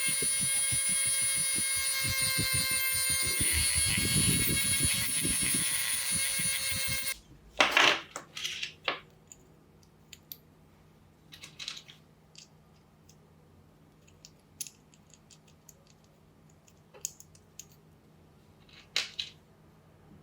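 An electric power tool motor runs steadily with a high whine, then cuts off suddenly about seven seconds in. Scattered clicks and knocks of parts being handled follow.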